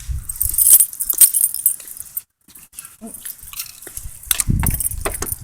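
A bunch of keys jangling, with sharp clicks and low bumps from handling near the start and again about four and a half seconds in.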